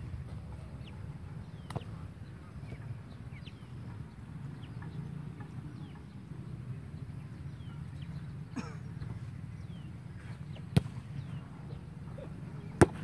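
Open-air ambience: small birds chirping in short falling notes over a steady low rumble. Three sharp thuds, the loudest near the end.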